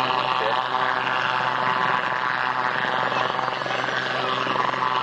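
Helicopter in flight, its rotor and turbine making a steady, continuous drone.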